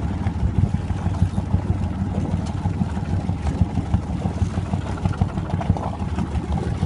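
Fishing boat's engine running steadily, a low, uneven rumble.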